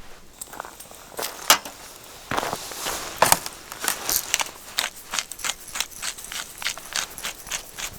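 Footsteps crunching on hard ground: a few scattered crisp steps, then from about two seconds in an even walking rhythm of roughly three steps a second.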